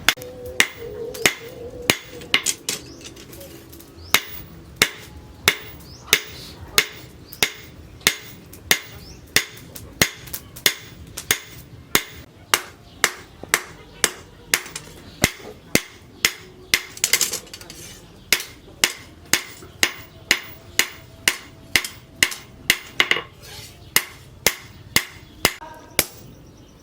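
Hand-hammer blows on steel over an anvil, in an even rhythm of about two strikes a second, each one ringing briefly: steel cut from a tractor disc plough being forged into a machete blade.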